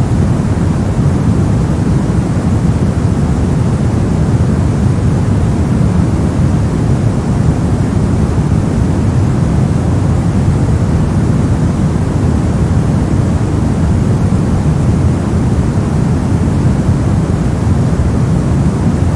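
Steady synthetic noise of the kind played for sleep and study, sold as white noise. It is an even, unchanging rush, weighted toward the low end, so it sounds deep rather than hissy.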